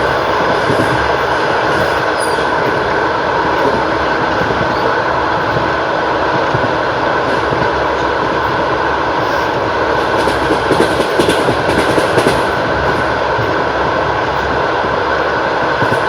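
Wheels of a Russian Railways long-distance passenger train clattering over the rails at speed, a steady loud rumble with a louder run of clacks about ten seconds in.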